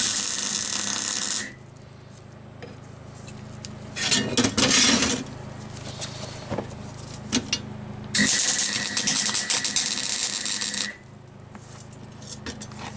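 Electric welding of a steel bracket: three bursts of welding crackle, the first about a second and a half long, a shorter one around four seconds in, and a longer one of about three seconds near the end, with a steady low hum between them.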